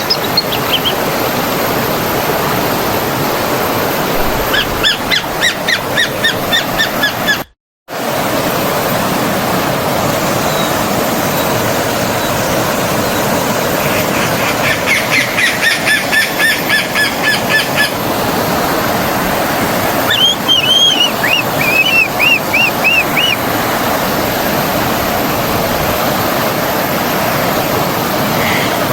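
Forest stream flowing steadily, with birds singing over it in three bouts of quick repeated high notes. The sound cuts out for a split second about seven and a half seconds in.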